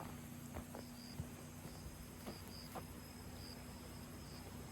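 Faint insects chirping in short repeated pulses, with a steady low hum and a few soft ticks.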